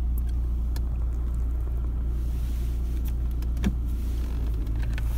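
Audi A6 2.0 TDI four-cylinder diesel engine idling steadily, heard from inside the cabin. A few faint light clicks come over it while the gear selector of the multitronic gearbox, stuck in Park, is worked.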